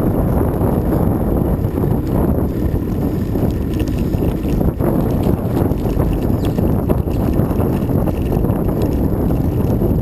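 Wind buffeting the microphone while riding along, a loud steady low rumble with no clear engine note.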